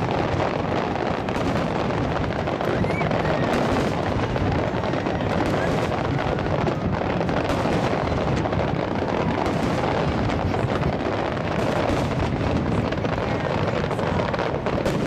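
Aerial fireworks shells bursting in a dense, continuous barrage, many reports overlapping with no pause between them.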